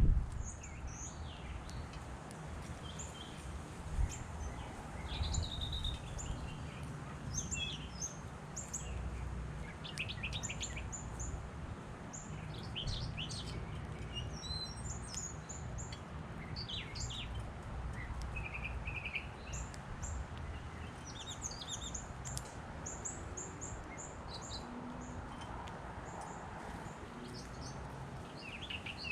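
Small songbirds chirping and calling, with many short high chirps and brief trills scattered throughout, over a steady low rumble.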